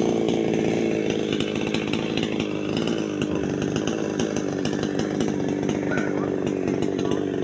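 Chainsaw engine running at high speed, its pitch wavering slightly as it cuts through fallen tree timber.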